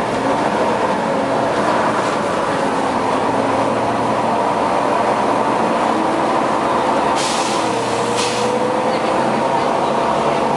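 Volvo B9TL bus running with its cooling fan loud and steady, a continuous whine over the engine. Two short hisses of air about 7 and 8 seconds in.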